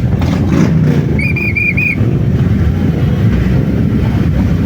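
Steady low rumble of motorcycle engines running, with four quick high-pitched whistle pips about a second in.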